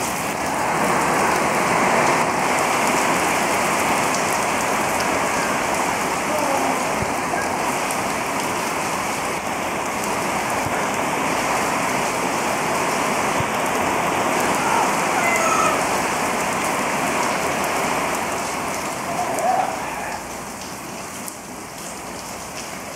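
Steady rain falling, growing quieter about twenty seconds in.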